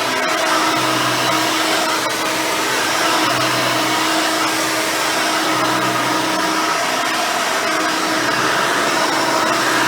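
Hoover Elite 600 upright vacuum cleaner running steadily with its single-row brush roll, with a lower tone that swells and fades about every two seconds.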